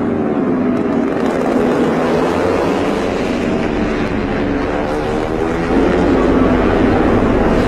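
MotoGP racing motorcycle engines running at high revs, their pitch sweeping up and down as the bikes accelerate, shift and pass.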